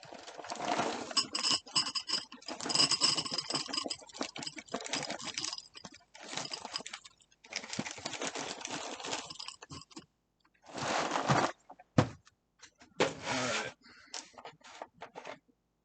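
Milk being poured over cereal in a bowl, followed by clinks and scrapes of a spoon against the bowl in several short spells.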